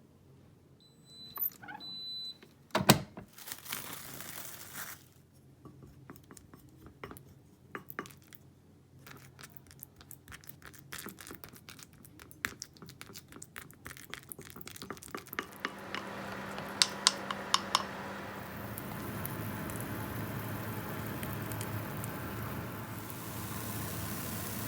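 Kitchen preparation: short beeps and a sharp click, then light clinks and clicks of utensils, and from about two-thirds of the way in the steady hum of a microwave oven running.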